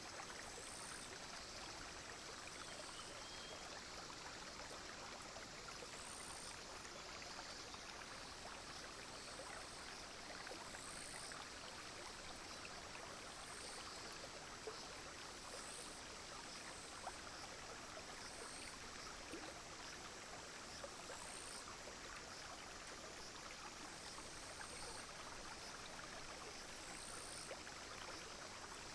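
A small clear brook flowing steadily, with insects calling high above it: a continuous high, fast trill, and a short high chirp repeating about every two and a half seconds.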